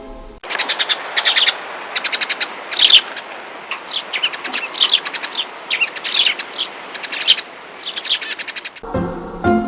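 Recorded birdsong: small birds chirping in quick trills over a steady hiss. It cuts in about half a second in, stops shortly before the end, and piano music comes back.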